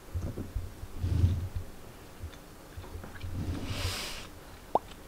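A person chewing a mouthful of food with the mouth closed, heard as low muffled mouth sounds in bursts. There is a breath out through the nose about four seconds in and a brief rising squeak near the end.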